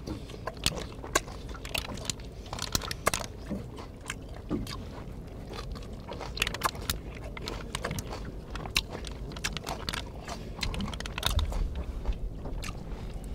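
Close-up chewing and crunching of hairtail sashimi with its soft bones, tossed with crisp raw onion, chili and green onion in sweet-sour chili sauce: a run of irregular sharp crunches and mouth sounds, picked up by a clip-on microphone on the eater's chest.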